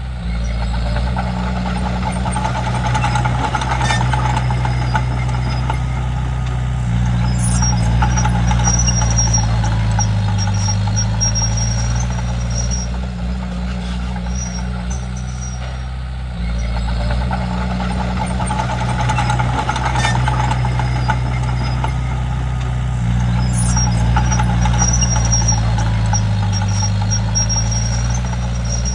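Komatsu D31P bulldozer's diesel engine running under varying load. It gets louder and its note sags and recovers twice, with a high squeal that comes and goes during each push.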